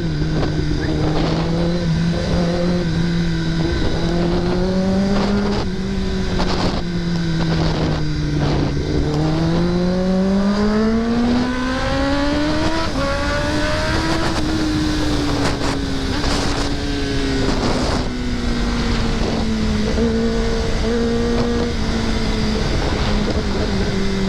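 Kawasaki ZX-10R's inline-four engine running under way with steady wind rush. The engine note dips, climbs for several seconds as the bike accelerates, then falls slowly as it eases off.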